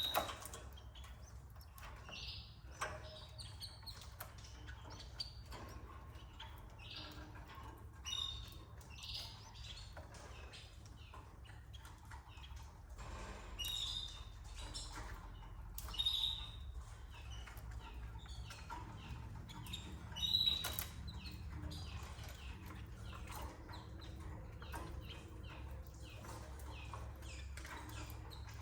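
Canaries at a nest: scattered short high chirps, about six louder than the rest, among wing flutters, small clicks and rustling, over a low steady hum.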